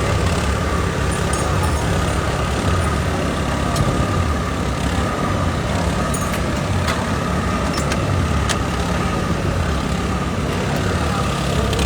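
Racing motorcycle engine idling steadily: a low rumble with a steady high whine on top, and a few faint clicks.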